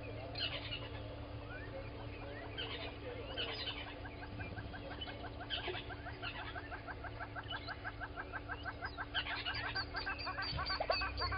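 Wild birds calling at a waterhole in the morning. From about five seconds in, one bird gives a long run of fast, evenly repeated notes, over a steady low hum.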